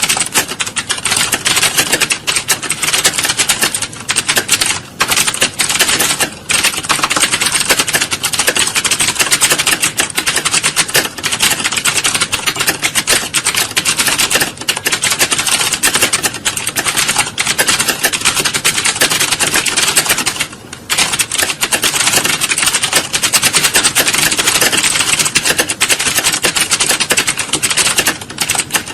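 Computer keyboards being typed on rapidly, as in a typing-test exam hall: a dense, continuous clatter of keystrokes with a few brief lulls.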